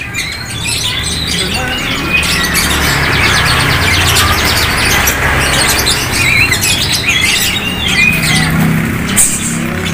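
Many caged birds chirping and squawking together, a dense overlapping chatter of short calls, over a low steady rumble.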